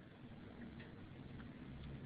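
A few faint, scattered clicks over a low hum.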